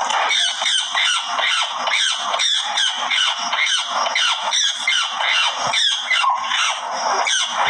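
A bird's shrill cries, repeated rapidly at about three a second in an unbroken string, each one falling in pitch.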